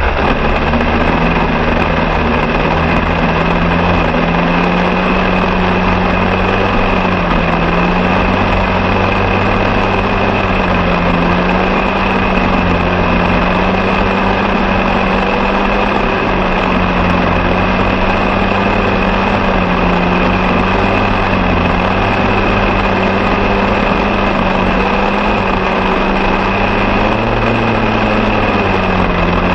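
Small engine running steadily at a constant speed, its pitch wavering slightly up and down.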